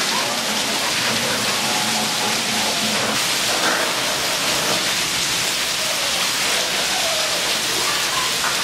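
Heavy rain pouring down steadily and splashing on wet paving and puddles.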